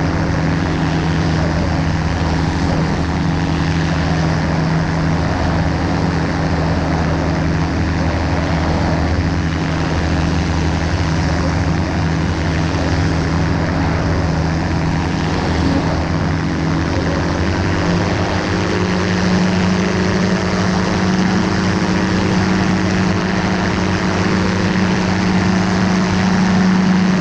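Ultralight aircraft's engine and propeller running steadily. About two-thirds of the way through, the engine speed rises a little and then holds at the higher pitch.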